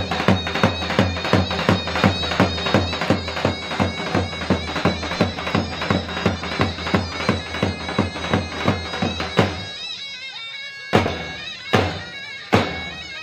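Kurdish wedding dance music from a live band: a reedy, bagpipe-like lead melody over a fast, steady drum beat. About ten seconds in the beat drops to a few single hits, then comes back in.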